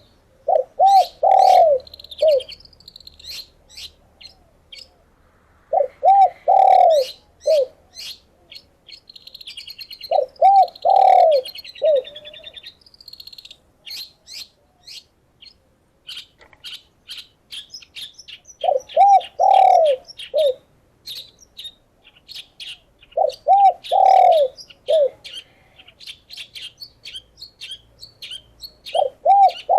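Dove cooing in short phrases of three or four notes, repeated about every four to six seconds. Between the phrases, small songbirds keep up rapid, high chirping that grows denser in the second half.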